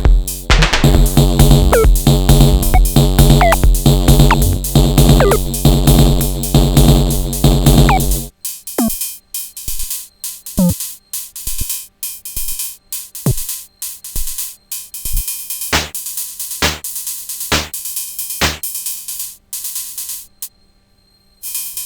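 Sonic Potions LXR-02 digital drum machine playing a techno pattern: a heavy kick and bass groove under pitched percussion. About eight seconds in, the kick and low end drop out, leaving sparse percussion hits, some sweeping down in pitch, over steady hi-hat ticks.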